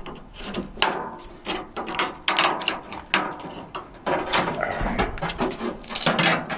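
Hand tools and parts scraping, clicking and knocking against a metal truck door in an irregular run of sharp strokes, as door hardware is worked loose.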